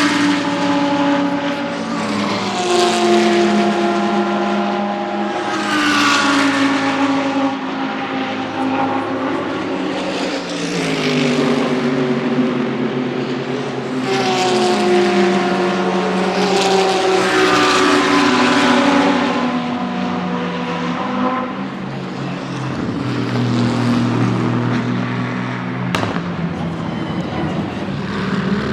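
GT3 race cars passing one after another at speed, each engine note dropping in pitch as the car goes by, a new car every few seconds. A short sharp click sounds near the end.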